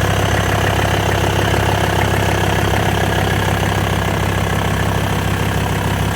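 Mercedes turbo-diesel engine in a 1994 Toyota 4Runner idling steadily with a fast, even diesel clatter, not yet warmed up.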